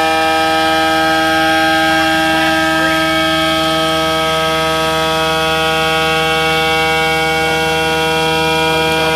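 CNC milling machine running steadily, its spindle giving an even, loud whine of many tones at once that holds without change.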